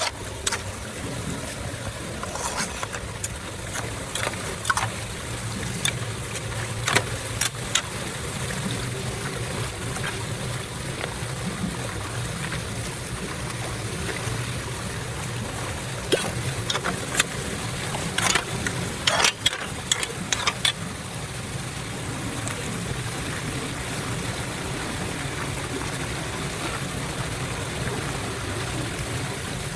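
Floodwater running steadily into a storm drain, with scattered sharp clicks and knocks, most of them bunched about two-thirds of the way through.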